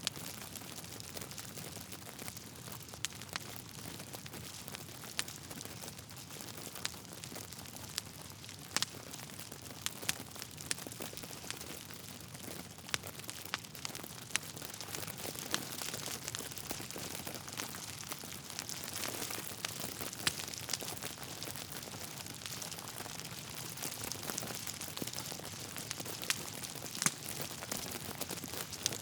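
Wood fire crackling steadily: burning logs give a soft hiss with irregular sharp pops and snaps every second or so.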